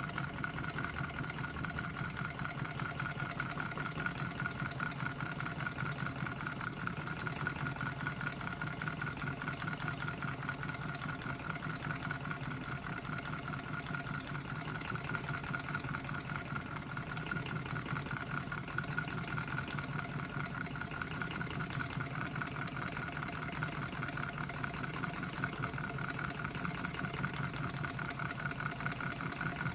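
3D-printed Stirling engine running steadily: a fast, even mechanical ticking over a steady hum.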